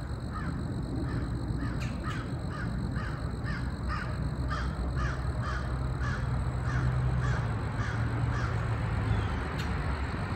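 A bird calling over and over in a long, even series of short harsh calls, about two to three a second.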